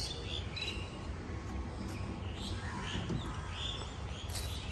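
Birds calling in short chirps, scattered through, over a steady low background rumble.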